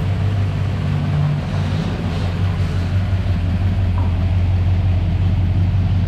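Ford Customline's engine running steadily under way, a constant low drone with road noise as the car drives along.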